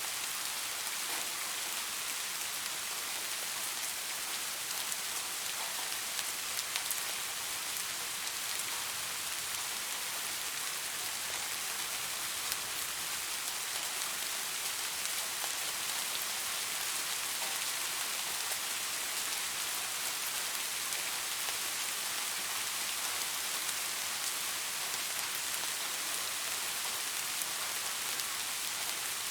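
Steady rain falling on leaves, a dense even hiss of countless small drop patters.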